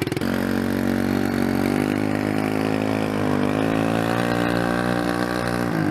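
Dirt bike engine pulling away under throttle: it picks up from a lumpy idle into a steady, even run just after the start. Its pitch eases up a little about two seconds in and drops back near the end.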